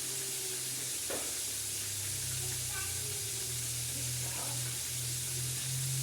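Chicken frying in hot oil, sizzling steadily, with a low steady hum underneath.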